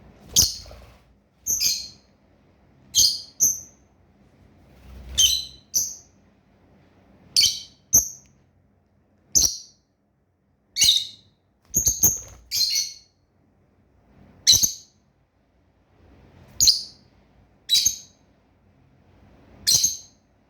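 Pet birds giving short, high, sharp chirps, singly or in quick pairs, every second or two.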